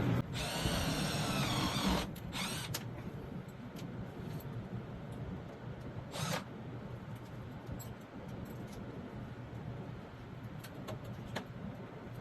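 Air-conditioning unit running with a steady low hum. A brief high, wavering squeal comes in the first two seconds, and a few sharp clicks and a knock are scattered through.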